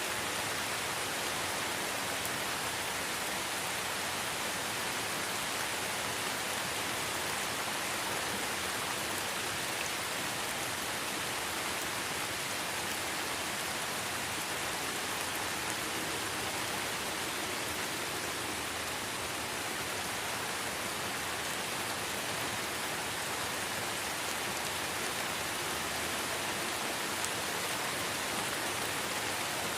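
Light rain falling steadily in a forest, an even hiss of drops with faint scattered patters.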